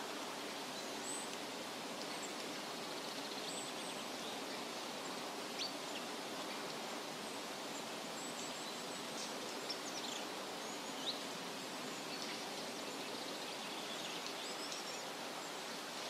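Steady outdoor background hiss with short, high bird chirps scattered through it, the sharpest a few seconds apart around the middle.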